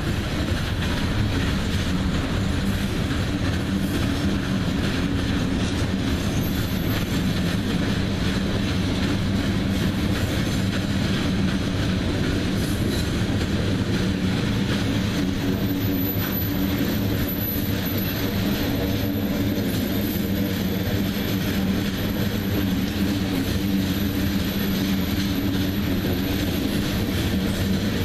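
Freight cars, covered hoppers and gondolas, rolling past: a steady rumble of steel wheels on rail with a dense run of wheel clicks over the rail joints.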